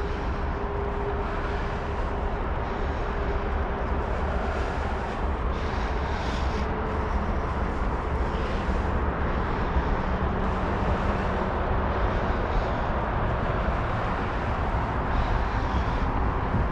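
Steady wind rumble on the microphone of a camera riding on a moving bicycle, with tyre noise under it.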